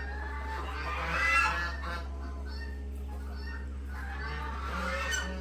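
Farm poultry calling in two loud, honking bouts, one about a second in and one near the end, the first the louder.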